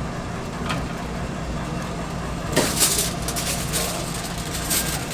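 Steady low machine hum, with scattered clicks and a short burst of clattering noise about two and a half seconds in.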